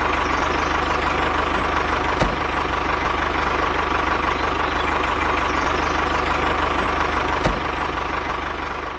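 A motor or engine running steadily with a regular low throb, with two brief clicks, easing off slightly near the end.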